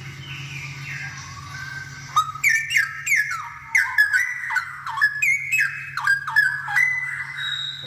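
Straw-headed bulbul (cucak rowo) in full song. It starts with soft descending warbles, then about two seconds in breaks into a loud, fast run of gliding whistled notes, each sharply struck. A steady low hum runs underneath.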